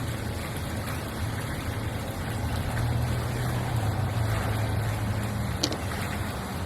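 Steady low hum over an even hiss, with a single sharp click near the end.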